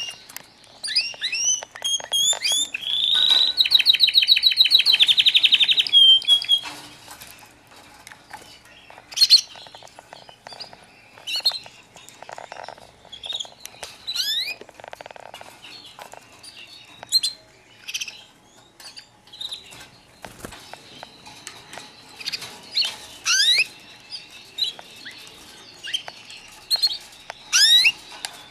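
White canaries chirping: a loud, rapid trill about three seconds in that lasts some three seconds, then scattered short chirps and quick rising calls.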